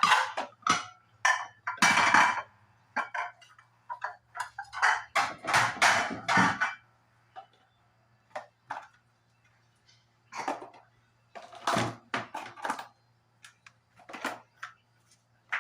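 Dishes and kitchen containers clattering and clinking as they are handled and set down. The clatter is busy for the first seven seconds or so, then thins to scattered knocks and clinks over a faint steady low hum.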